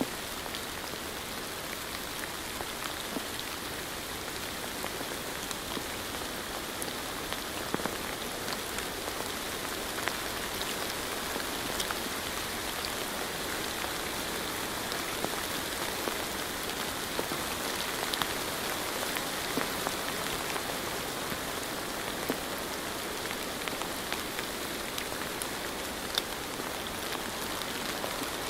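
Steady rain falling, an even hiss with scattered single drops ticking sharply here and there.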